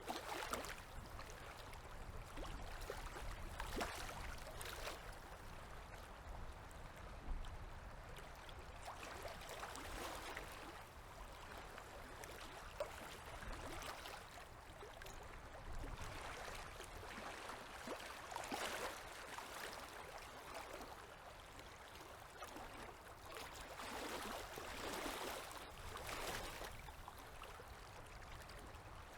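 Small river waves lapping at the shore, coming in irregular swells every few seconds over a low steady rumble.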